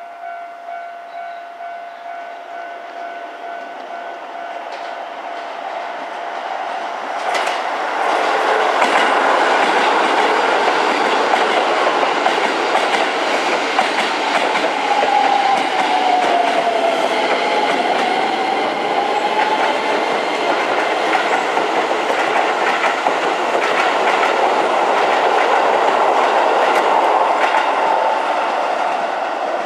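Keisei electric commuter train running along the platform close by: wheels clacking over rail joints amid the loud rush of the cars, building about seven seconds in and easing near the end. A whine dips and rises midway.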